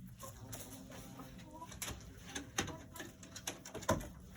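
Backyard hens making soft, low calls, with a scatter of short sharp clicks, the loudest near the end.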